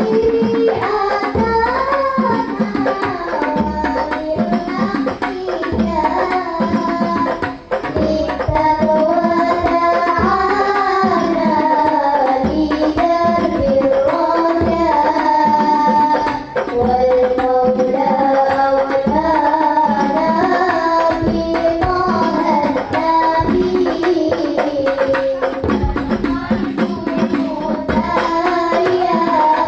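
Loud music played through a large PA sound system under test: a wavering sung melody over hand drums and a steady deep beat.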